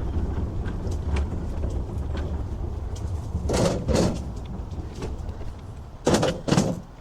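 Strong wind buffeting the microphone on a moving scooter: a low rumble with light clicks and rattles, and two pairs of short, louder noisy bursts, one pair near the middle and one near the end.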